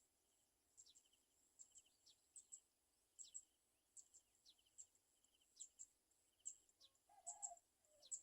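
Faint, high-pitched bird calls repeating two or three times a second, each a sharp high note with a quick downward slide and a short buzzy trill. A brief lower note comes about seven seconds in.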